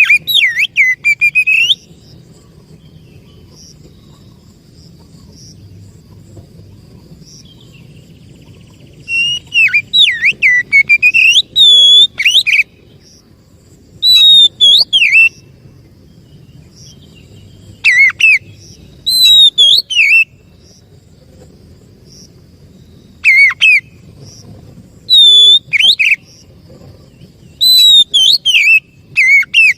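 Oriental magpie-robin singing: short bursts of loud, sweeping whistled phrases, about seven in all, separated by pauses of a few seconds, with a faint low hum in the gaps.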